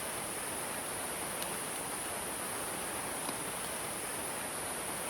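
Steady outdoor ambience: an even hiss with a continuous high-pitched insect drone, such as crickets.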